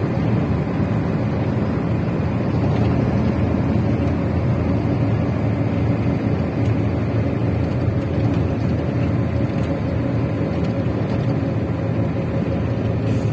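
Steady running noise of a motor vehicle: a continuous low engine hum and rumble that holds even, with no sudden change.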